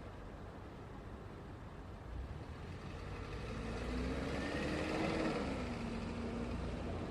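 Road traffic with a steady low rumble; one motor vehicle approaches and passes, its engine and tyre noise growing to a peak about five seconds in, then the engine note drops in pitch as it goes by.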